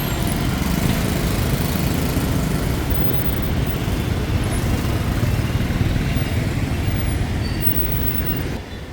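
Busy city street traffic, dense with motorbikes: a steady wash of engines and passing vehicles that eases off a little near the end.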